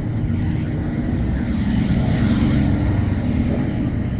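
A car engine idling steadily, swelling slightly about two seconds in.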